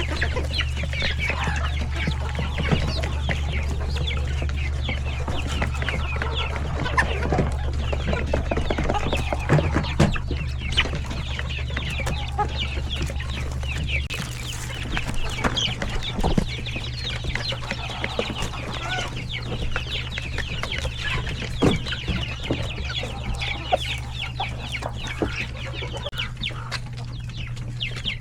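A flock of chickens with many chicks, clucking and cheeping continuously in overlapping short calls, with a steady low hum underneath.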